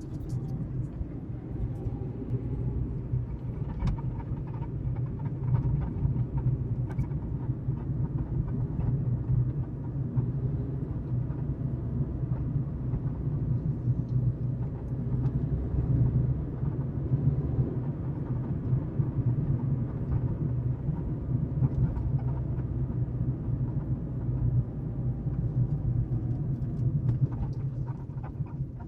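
Lada Vesta driving, heard from inside the car: a steady low road and engine rumble, with occasional faint knocks or rattles, the extraneous noise from the trunk.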